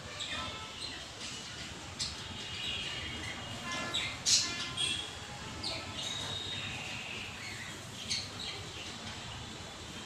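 Small birds chirping and twittering in many short high calls, with a few sharper, louder chirps standing out, over a faint steady background hum.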